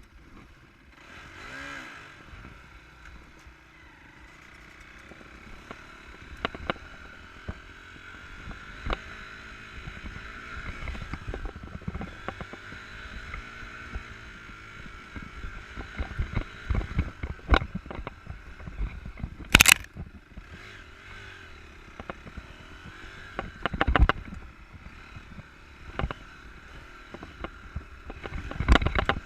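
Enduro motorcycle ridden off-road, its engine rising and falling in pitch, with frequent knocks and clatter from the rough ground. A sharp crack about two-thirds of the way through is the loudest moment.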